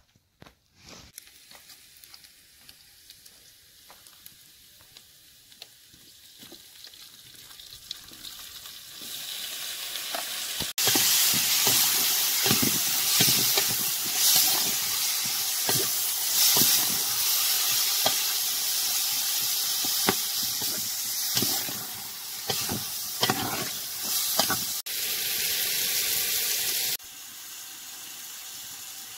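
Chopped tomatoes and sliced onions sizzling in hot oil in an aluminium cooking pot, stirred with a metal ladle that knocks and scrapes against the pot. The sizzle builds from faint to loud about a third of the way in and drops back near the end.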